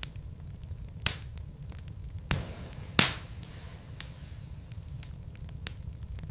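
Burning logs crackling in a fireplace: a low rumble from the fire under scattered snaps, with three louder pops, the loudest about three seconds in.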